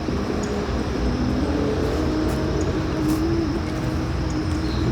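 A motor vehicle's engine running nearby: a steady low rumble with a faint wavering hum.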